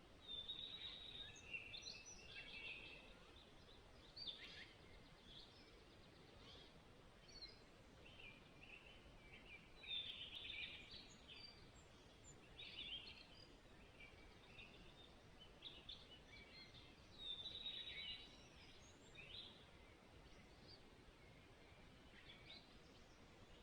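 Songbirds singing and chirping faintly over a steady hiss, in short phrases that come and go, a little louder near the start, about ten seconds in and about seventeen seconds in.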